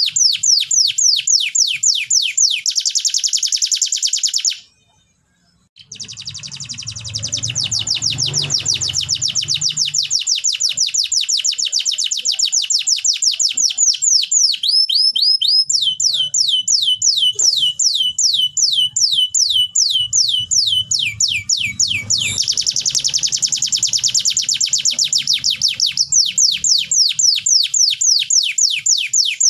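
Domestic canary singing: long rolls of fast, evenly repeated chirps, several notes a second, switching to a new kind of trill several times, with a brief break about five seconds in.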